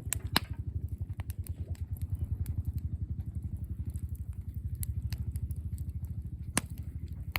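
Campfire wood crackling, with scattered sharp snaps and two louder pops, about half a second in and near the end, over a steady low, fast-pulsing rumble.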